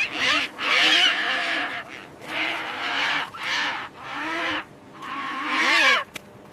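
An animal giving a series of about five harsh, loud calls, each half a second to a second long, with short pauses between them.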